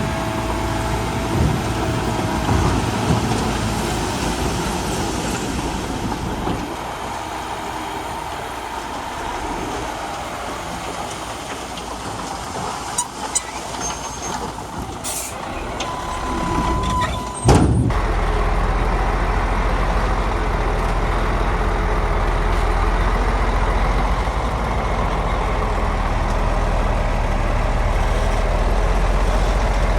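Diesel engines of heavy earthmoving machinery running. A single sharp knock comes a little past halfway, followed by a steadier, louder low engine drone.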